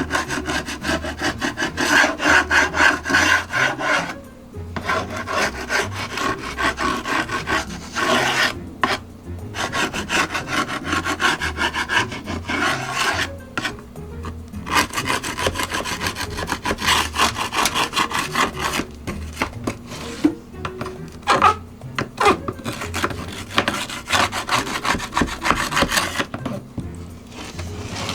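Sandpaper rubbing back and forth over an old wooden beehive box in several long spells of quick, scratchy strokes, with short pauses between them, as the old finish is sanded off for painting.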